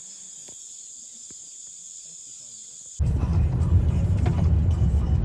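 Insects trilling steadily in a high, unbroken buzz. About three seconds in it cuts off abruptly and a much louder low rumble takes over, like a moving vehicle.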